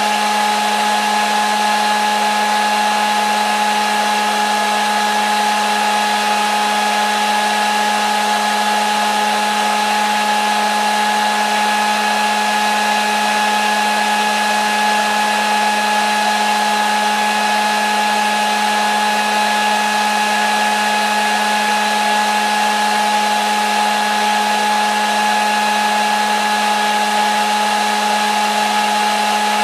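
Hair dryer running continuously at one speed: a steady whirring rush of air with a constant motor whine, unchanging throughout.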